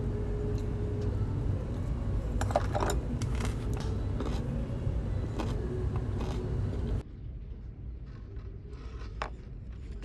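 Steady low rumble of a moving vehicle, with scattered small clinks and scrapes. About seven seconds in it cuts off to a much quieter background with a few light clicks.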